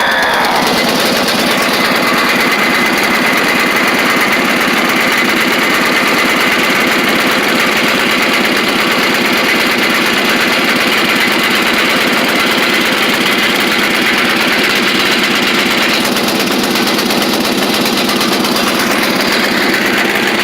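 Mid-1980s Simplicity lawn tractor's small gasoline engine running steadily on choke during a cold start.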